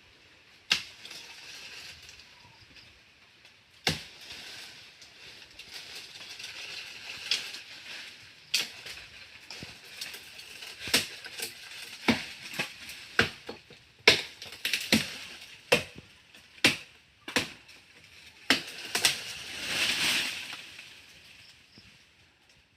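Branches and leaves being handled or breaking: about fifteen sharp cracks and knocks at uneven intervals over a leafy rustling, with a louder burst of rustling about two-thirds of the way through. No chainsaw is running.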